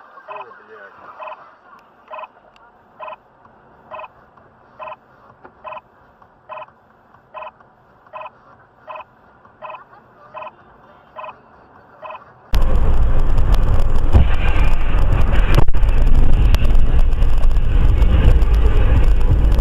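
A short electronic beep repeats evenly, a little more than once a second, over faint background hum. About twelve seconds in, the audio cuts suddenly to loud, steady wind and road rumble.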